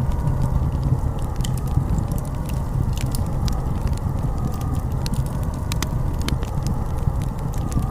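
Blizzard wind rumbling low and howling with a slowly wavering whistle, over a steady scatter of sharp crackles.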